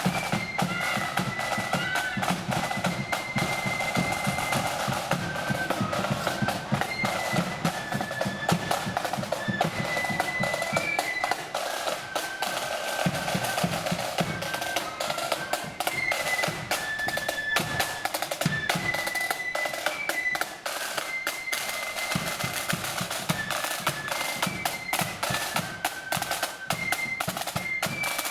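Marching flute band playing a tune. Flutes carry the melody in held notes that step up and down, over rapid snare drum rolls and bass drum beats.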